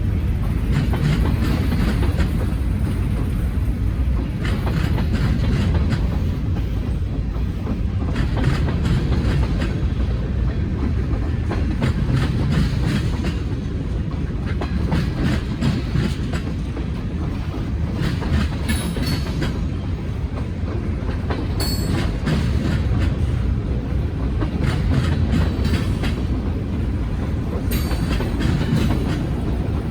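Freight train cars rolling past, with a steady rumble and wheels clacking over rail joints. Brief high wheel squeals come three times, in the second half.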